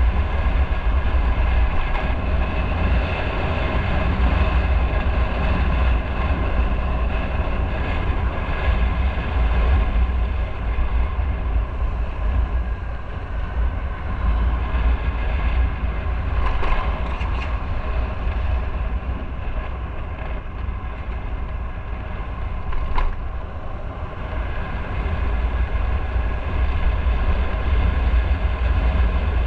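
Motorcycle engine running steadily while riding, over a heavy low rumble. A few short clicks come a little past halfway, and one more later.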